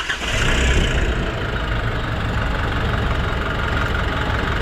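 Nissan NV350's 2.5-litre turbodiesel engine just after starting, its revs settling within the first second into a steady idle. The idle holds even, with the earlier hunting gone after the suction control valve was replaced and the EGR and intake manifold cleaned.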